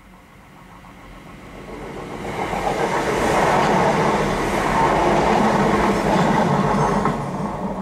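Passenger train passing over a level crossing, heard from inside a car. The sound builds from about a second in, stays loud for several seconds as the train goes by, and falls away near the end.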